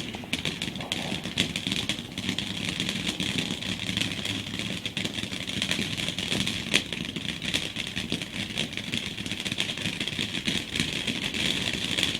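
Ground fountain firework burning: a steady hiss with dense crackling throughout.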